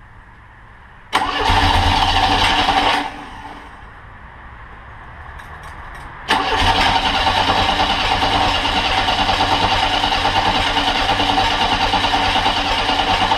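Monster trike's engine on a freshly rebuilt carburetor catching and running loud for about two seconds, dropping back, then picking up again about six seconds in and running loud and steady. It bucks, which the owner puts down to an intermittent spark problem.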